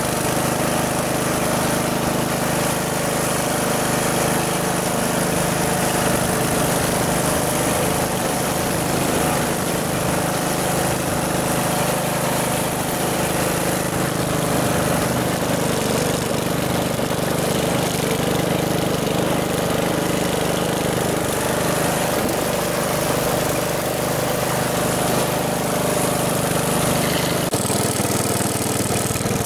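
1969 Chevy Malibu's engine idling steadily, its tone shifting slightly near the end.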